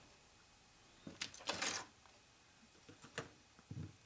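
A few light clicks and knocks from small objects being handled, with a short scraping rustle about a second and a half in and a soft thud near the end.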